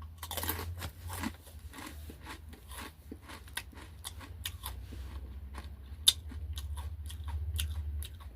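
Someone biting and chewing a Takis Blue Heat rolled tortilla chip close to the microphone: a rapid run of sharp, dry crunches, one especially sharp about six seconds in, over a steady low hum.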